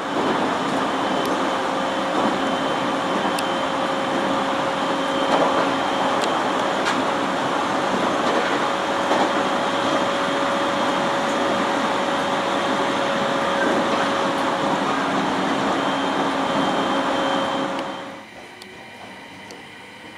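Local train running at speed, heard from inside the car: a loud, steady rumble of wheels and running gear with a steady hum, which drops away fairly suddenly about eighteen seconds in.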